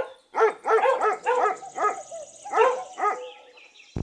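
Dog barking in a quick run of short, high-pitched barks, about three to four a second, stopping about three seconds in.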